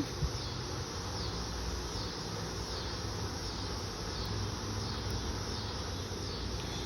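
Steady insect chorus with a faint high warble repeating about every second and a half, over a low rumble.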